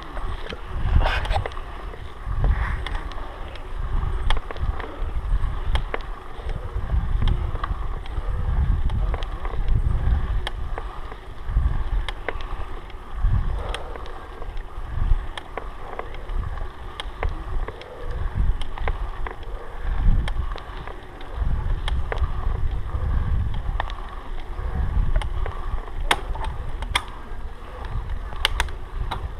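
Wind buffeting the microphone in uneven gusts, with scattered sharp clicks and knocks over it.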